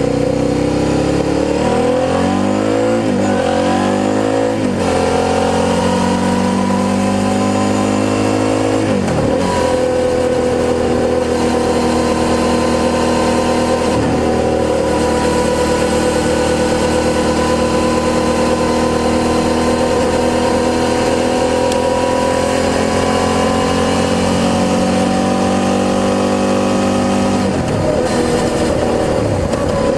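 Suzuki SV650's V-twin engine breathing through a G&G aftermarket exhaust under way. The revs swing up and down over the first few seconds, drop sharply and climb again at gear changes about nine seconds in and near the end, and hold fairly steady in between.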